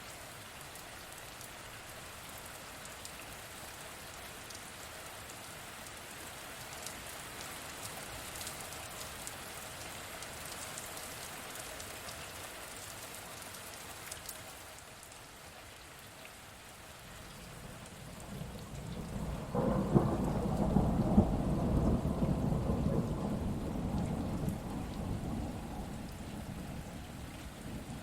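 Steady rain falling, then a roll of thunder that swells about two-thirds of the way in, rumbles for several seconds as the loudest sound, and fades away near the end.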